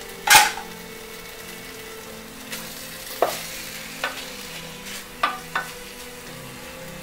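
A wooden spatula stirring thick chicken masala in a metal pot. There is one sharp knock against the pot near the start, then several lighter knocks and scrapes, over a steady sizzling hiss.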